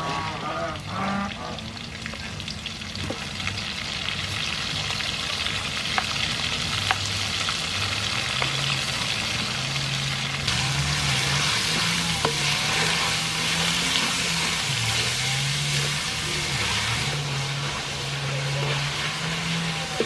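Minced pork sizzling in hot oil and garlic in a wok, stirred with a wooden spatula that now and then ticks against the pan. The sizzle grows louder about ten seconds in.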